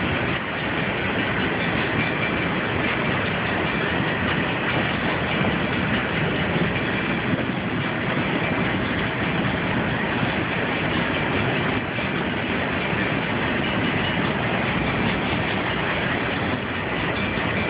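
A long train rolling past, with a steady, unbroken noise of its cars' wheels running on the rails.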